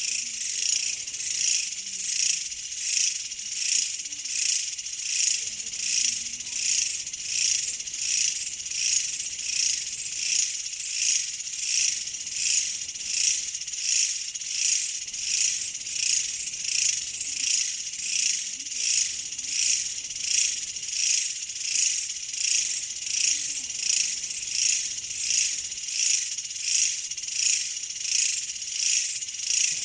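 A high-pitched insect chorus, swelling and fading in a steady rhythm a little faster than once a second.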